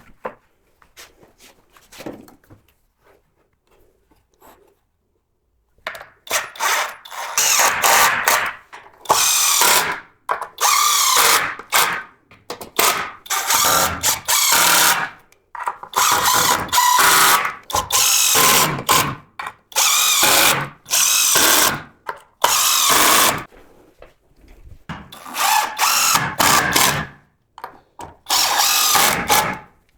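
Power drill running in repeated bursts of a second or two with short pauses between. It begins after a few quiet seconds of light clicks.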